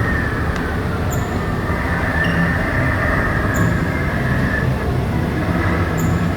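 Truck kiddie ride's drive mechanism running: a steady mechanical rumble with a wavering whine, and a faint high click about every two and a half seconds.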